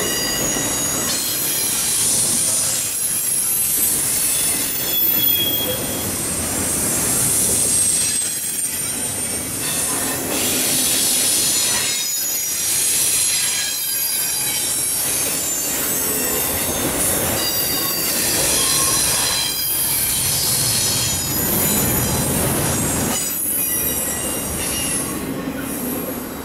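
Double-stack intermodal well cars rolling past close by: a steady rumble of steel wheels on rail with high-pitched wheel squeal flickering in and out. The sound eases near the end as the last car clears.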